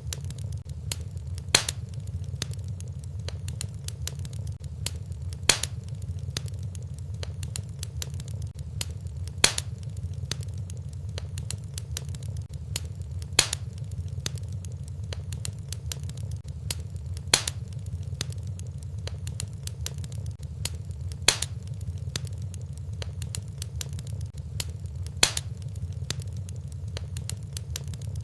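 Fireplace wood fire crackling over a steady low rumble, with a loud sharp pop about every four seconds.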